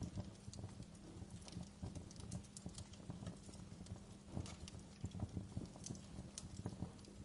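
Wood fire burning in a fireplace, crackling with irregular small pops and snaps over a low steady rumble.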